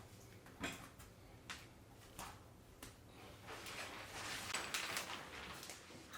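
A few light knocks or clicks, about one every second, over a low hum; then, about halfway through, a soft hissing, rustling noise that grows louder.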